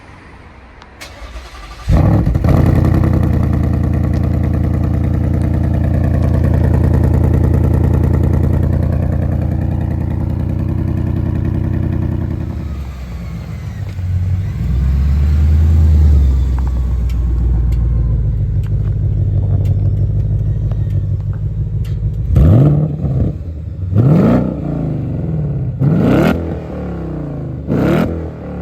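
Ford Mustang GT's 5.0-litre V8 cold start: it is cranked and fires about two seconds in, holds a loud, steady high idle, then drops to a lower idle about halfway through. Near the end the throttle is blipped four times in quick, sharp revs.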